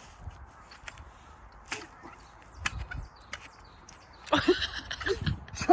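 Scattered knocks and scrapes of a hand tool digging in soil for deodeok roots, with a few short vocal sounds near the end.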